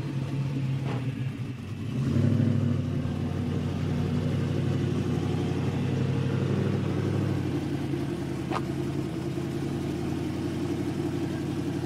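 A car engine running at a steady idle. It gets a little louder about two seconds in.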